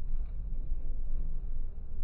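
Low, steady rumble of a moving train heard from inside the coach, the loudness wavering slightly.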